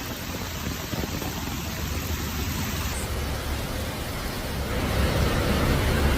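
Heavy rain, a steady rushing noise with a deep rumble underneath, growing louder about three-quarters of the way through.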